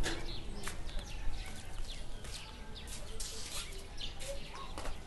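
Small birds chirping, with scattered short clicks and knocks over a low steady rumble.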